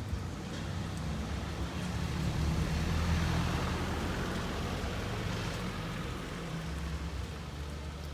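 A vehicle passing by: its noise swells to a peak about three seconds in and fades away, over a steady low rumble.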